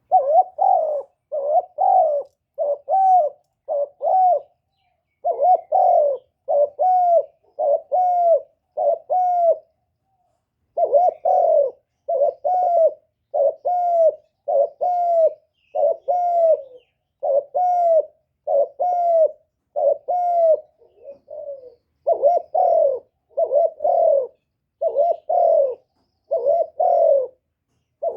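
Spotted dove cooing: short, arching coos in quick succession, about one and a half a second, in runs of four or five with brief pauses between runs.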